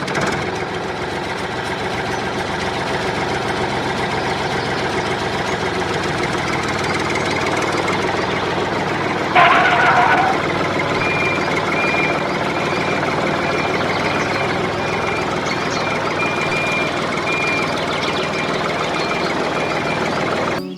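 Homemade mini tractor's small motor running steadily, with a short, loud, pitched honk just before halfway through and then a faint, high beep repeating about once a second.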